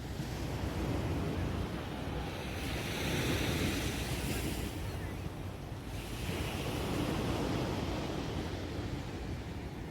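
Sea surf breaking and washing up the beach, swelling twice, with wind rumbling on the microphone.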